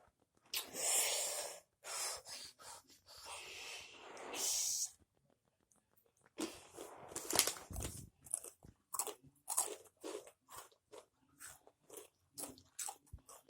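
Someone crunching and chewing Takis rolled tortilla chips with the mouth close to the microphone: rapid, irregular crisp crunches from about six seconds in. Before that, a few longer hissing noises and a short pause.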